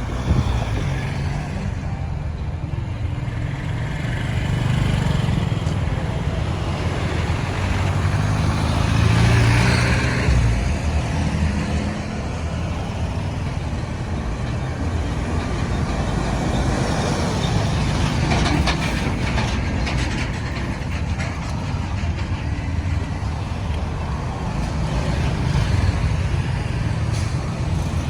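Road traffic: engines of passing trucks, cars and motorbikes running steadily, with one vehicle passing loudest about nine to ten seconds in.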